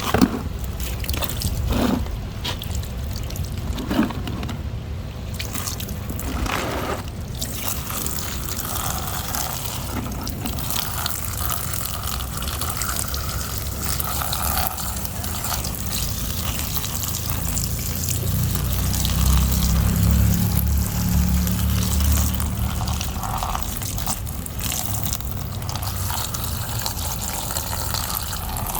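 Water trickling and pouring steadily, with a few sharp knocks in the first seven seconds and a low rumble for several seconds past the middle.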